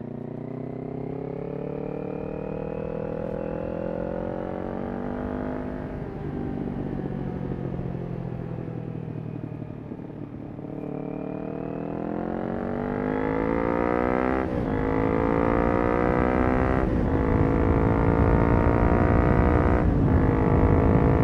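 Kawasaki Ninja 400's parallel-twin engine through a Yoshimura exhaust, pulling up through the revs, easing off for a few seconds, then accelerating hard again. Three quick upshifts break the note near the end, and wind rush builds with the speed.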